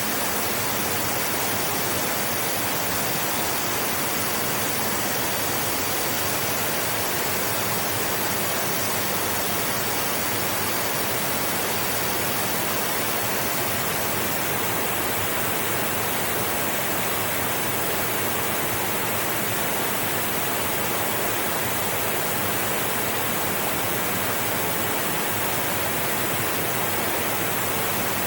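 Steady rushing of flowing river water, an even, unchanging wash of sound.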